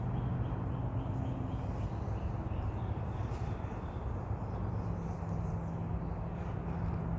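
Steady low motor hum, like an idling vehicle engine, whose pitch steps up about four and a half seconds in, with a row of faint short chirps high above it early on.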